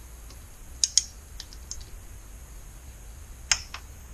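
Torque wrench on a hex-bit socket clicking as camshaft cap bolts are tightened to the set torque of 106 inch-pounds. Sharp clicks in pairs, about a second in and again about three and a half seconds in, with a few lighter ticks between.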